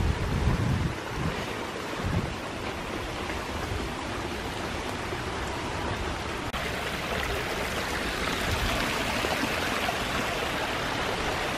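Steady rush of running rainwater runoff after heavy rain, with a few low thuds in the first two seconds. The hiss grows brighter and louder abruptly about six and a half seconds in.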